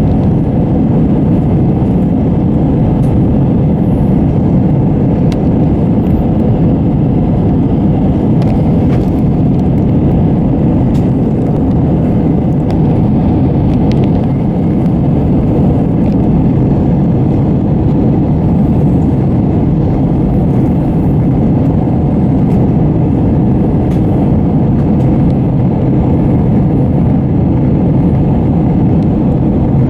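Steady low roar inside an Airbus A320's cabin, from its jet engines and the air rushing past, with a few faint ticks and rattles.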